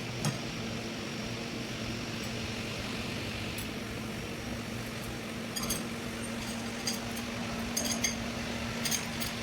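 Short, sharp metallic clinks of steel parts and tools being handled, scattered irregularly and clustering near the end, over a steady low hum.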